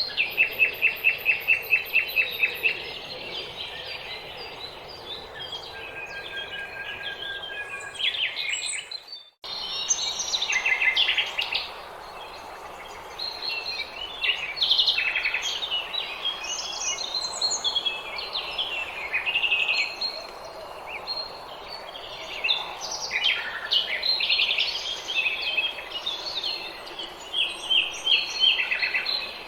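Several small songbirds singing and chirping together in a spring chorus, opening with a fast run of repeated high notes. The sound drops out briefly about nine seconds in.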